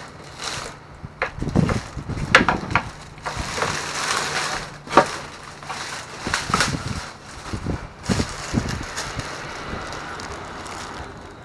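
Rummaging through a dumpster full of discarded goods: packaging crinkling and being crushed, with irregular sharp knocks as items are moved, busiest in the first eight seconds.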